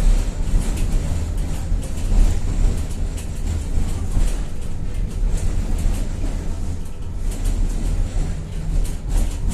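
Tatra-Yug K1M tram running along the track: a steady low rumble with scattered clicks and rattles from the wheels and rails.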